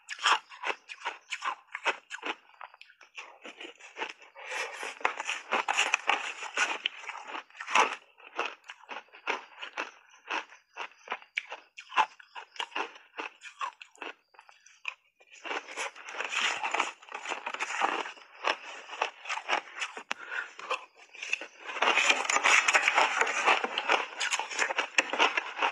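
Crunching and chewing of shaved ice coated in matcha tea powder, in big bites: dense runs of crackling crunches with short gaps between, and a brief lull a little past halfway.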